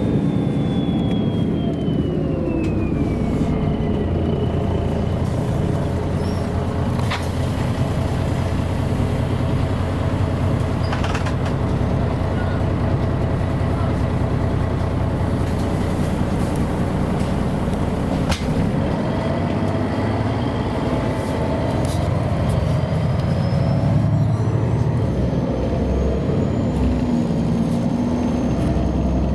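MAN A23 articulated city bus under way, heard from inside: a steady diesel engine and drivetrain drone with road noise. A high whine falls in pitch over the first few seconds and another rises again near the end, and a few sharp knocks or rattles cut in along the way.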